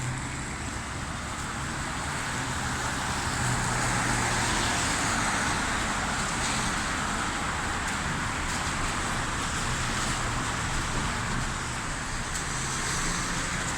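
Steady hiss of rain and road traffic on wet streets, with a low hum underneath and a gentle swell a few seconds in.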